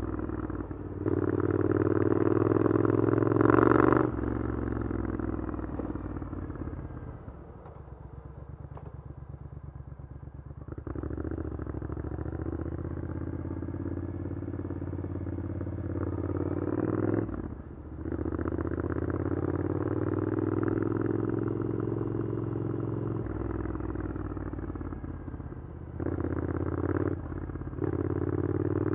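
Triumph Scrambler 900's parallel-twin engine through an Arrow aftermarket exhaust, ridden in town. It pulls with pitch rising and falling and breaks off briefly at several gear changes, and a quieter low-rev stretch about a third of the way in sounds like it is rolling off or near idle.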